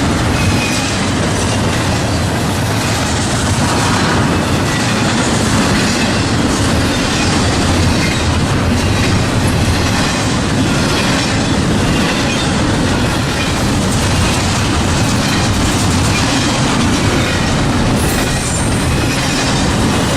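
Norfolk Southern freight train rolling past, a steady loud rumble and clatter of wheels on the rails.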